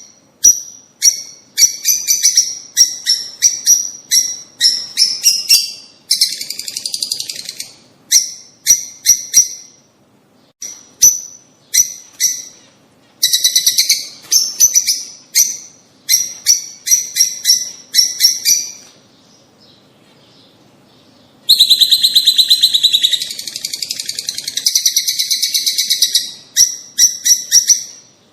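Birds calling in quick runs of short, high chirps. There is a buzzy trill of about a second near six seconds in, a pause of about two seconds past the middle, and then a long dense trill lasting about five seconds before the chirping resumes.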